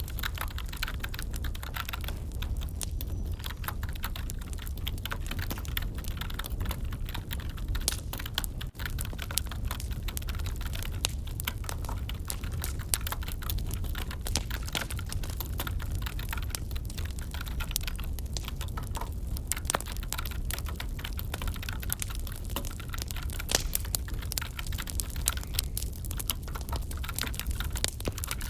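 Wood fire crackling, layered with irregular computer keyboard typing: a dense run of sharp clicks and pops over a steady low rumble.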